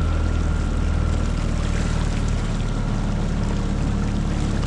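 Tohatsu 9.8 hp four-stroke outboard motor running steadily at low speed, with water noise around the hull.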